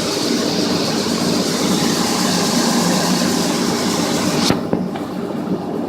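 Harvest machinery running steadily: a tractor and combine engine drone with a hiss on top. About four and a half seconds in, the high hiss cuts off suddenly, followed by a few knocks.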